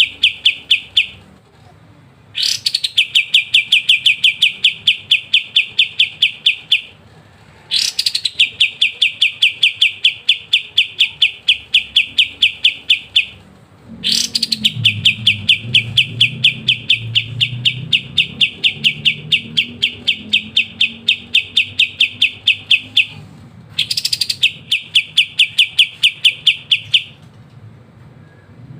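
Kapas tembak songbird singing long, rapid trills ("ngebren"): each phrase opens with a sharp high note, then runs on as a fast, even string of notes for three to nine seconds. Four such phrases follow the tail of another, with short pauses between them.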